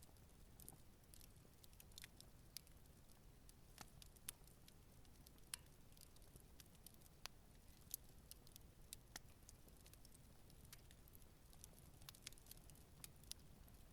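Campfire crackling faintly: scattered, irregular sharp pops and ticks from the burning wood over a low steady rumble.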